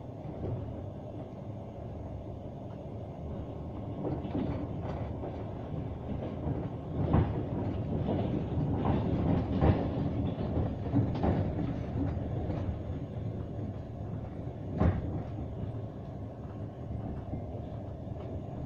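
Passenger train running along the rails with a steady rumble, and occasional sharp knocks of the wheels over rail joints.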